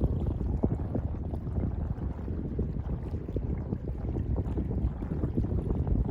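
Sea water lapping and sloshing, with many small splashes, under wind buffeting the microphone.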